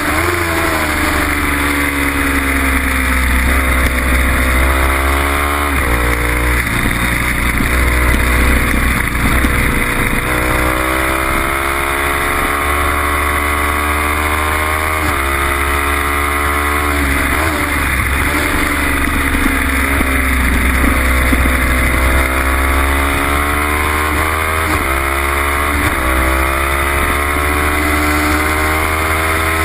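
Kawasaki Ninja 300's parallel-twin engine heard from on board at racing speed, its pitch climbing under full throttle and dropping suddenly at each gear change, with long rising pulls and clusters of downshifts. A steady low rush of wind runs underneath.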